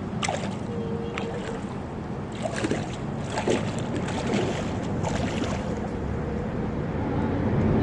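Steady rush of water from a waterfall into a pond, with wind buffeting the microphone and a few sharp clicks.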